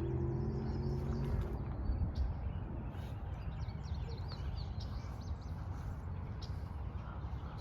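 Outdoor ambience: a steady low rumble, a low hum in the first second and a half, and small birds chirping, most busily around three seconds in.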